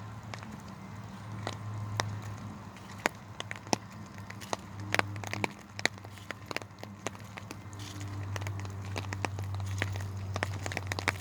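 Irregular crackling and snapping of dry twigs and leaves, over a steady low hum.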